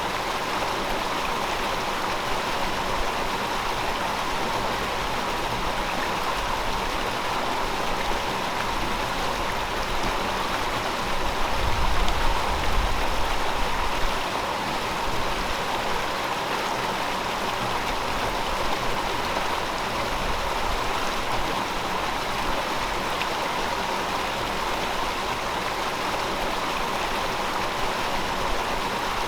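River water flowing steadily, a continuous rushing babble. About twelve seconds in, a low rumble swells for a couple of seconds, then settles back.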